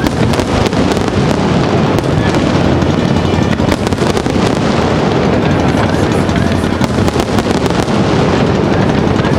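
Fireworks display: a dense, continuous barrage of bangs and crackling from bursting shells.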